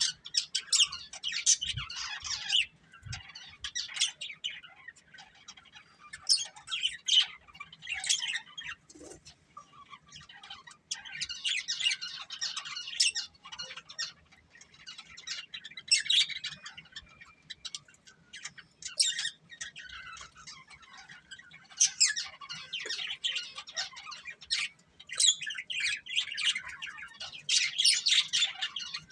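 A breeding pair of budgerigars chirping in bouts of rapid, high chatter, a few seconds at a time, with short pauses between bouts.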